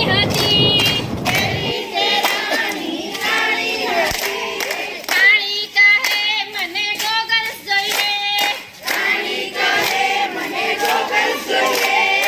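A garba song sung with a wavering voice, over rhythmic hand claps. A low rushing noise underneath stops abruptly about two seconds in.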